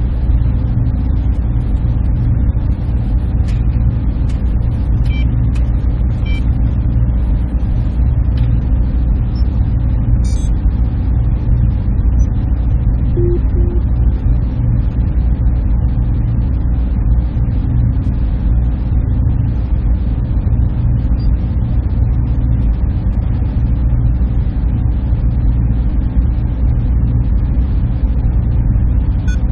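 Server room ambience: the steady drone of machines and their cooling, a deep hum with a fainter hiss above it, unchanging throughout.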